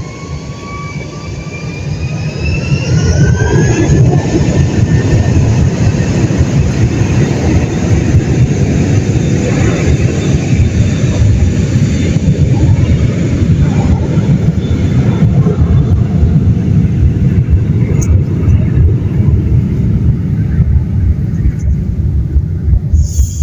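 Jet aircraft engine noise: a whine that rises in pitch over the first few seconds, then a loud steady rush that holds.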